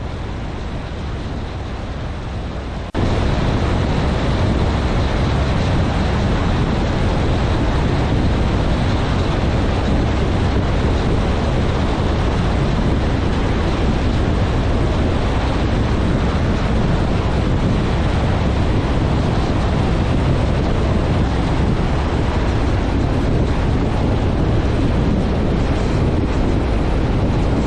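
In-cabin noise of a Piper PA-28-161 Warrior's 160-horsepower engine and propeller with rushing air: a steady, loud noise that jumps suddenly louder about three seconds in and holds there.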